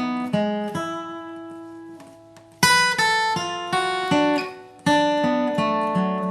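Acoustic guitar flatpicked bluegrass-style, playing a melody one note at a time. About a second in, a note is left ringing and fading for nearly two seconds before the picking starts again.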